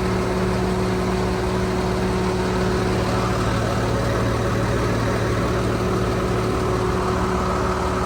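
Engine of a 5,000-gallon jet fuel truck running steadily: an even drone with constant tones above it.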